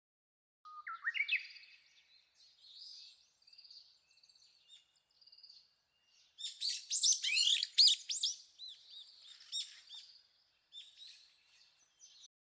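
A small songbird singing: a few quick rising notes about a second in, then a loud, rapid run of varied notes a little past halfway, followed by softer scattered notes.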